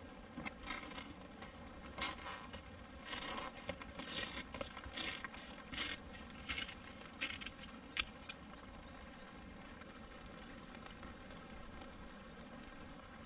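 A dozen or so short scraping, rustling sounds over about eight seconds, like material being handled or crumpled, then only the faint steady rush of a stream.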